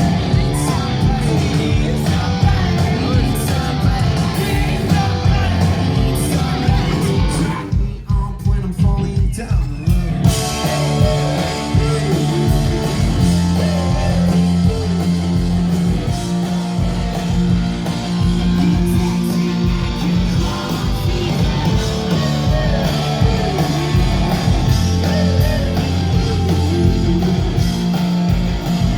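Rock band playing loud and live, with guitars and singing. About eight seconds in, the upper instruments drop out for two seconds, leaving only the low end, then the full band comes back in.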